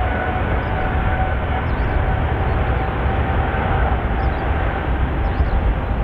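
Jet airliner engines at high power: a deep, steady rumble with a whine held over it.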